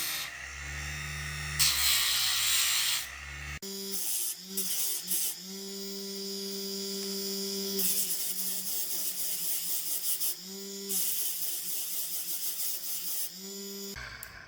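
Abrasive rubbing over a low machine hum, then a small electric power tool's motor whining in short runs that start and stop about six times, over a high rasping hiss.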